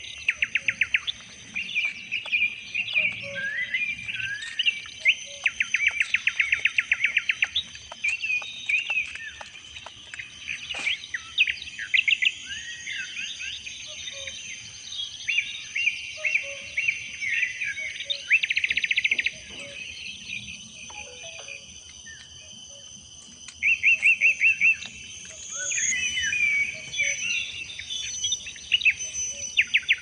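Several forest birds calling and singing, with bursts of fast trilled notes every several seconds. A steady high insect drone runs underneath.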